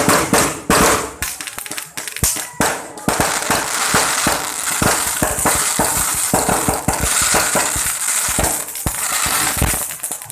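Firecrackers going off in rapid, irregular bangs that merge into a dense, continuous crackle from about three seconds in, like a long string of firecrackers burning through.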